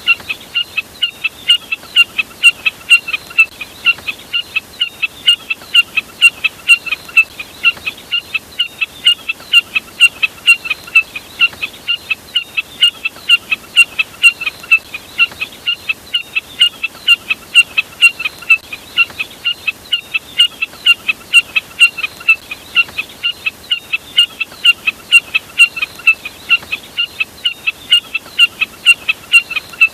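Recorded jack snipe call used as a hunting lure: short, high chirps repeated evenly and without pause, about two to three a second.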